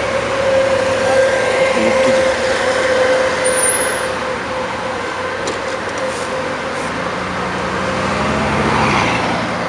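Brake pads squealing in a steady tone over street traffic noise, fading out after about four seconds; near the end a vehicle's sound builds and falls as it passes.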